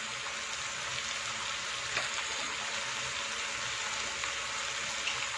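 Vegetables frying in a nonstick pan: a steady sizzle, with a faint tick about two seconds in.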